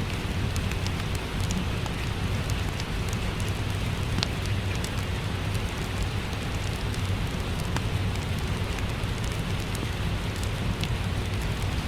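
Steady rain with a low rumble, mixed with the crackle of a wood fire: scattered sharp pops over the hiss.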